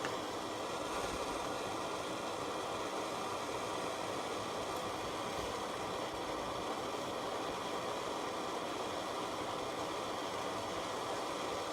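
MIG welder arc running continuously, a steady crackling hiss as material is built up on a worn pin bore of a mini excavator.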